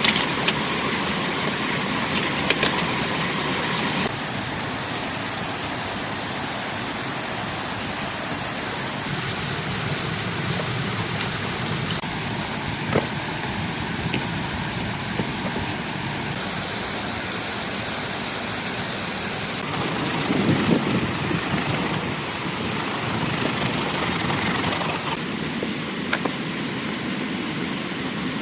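Steady rain falling, an even hiss, with a few scattered taps and clicks and a louder, lower stretch about twenty seconds in.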